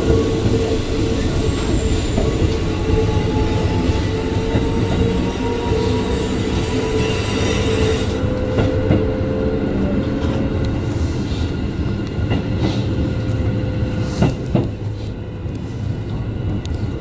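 Keikyu 1500 series commuter train running, heard from just behind the cab: a steady rumble of wheels on rail with a steady whine over it. The brighter, hissier part of the noise drops away about halfway through, and there are a couple of clacks over rail joints near the end.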